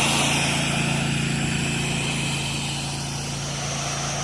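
An 8 GPM pressure washer's engine running steadily under the hiss of the spray from the wand. The hiss eases off about half a second in.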